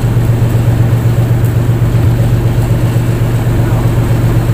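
Fishing boat's engine running steadily under way, a loud, even low hum with a fast regular pulse.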